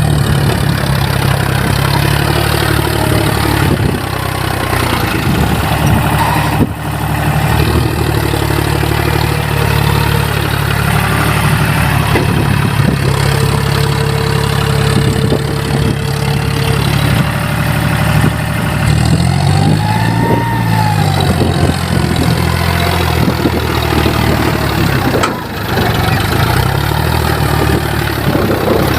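John Deere 5045 D tractor's three-cylinder diesel engine running steadily, revved up and back down about two-thirds of the way in and again near the end.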